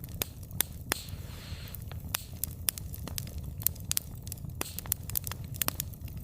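Wood fire burning: irregular sharp crackles and pops of burning logs over a steady low rumble of the flames, with a brief hiss between one and two seconds in.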